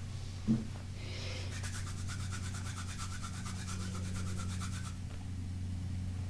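Fingernails scratching and tapping on a crystal stone. A single knock comes about half a second in, then a fast, even run of strokes at about eight a second for some three seconds, over a steady low hum.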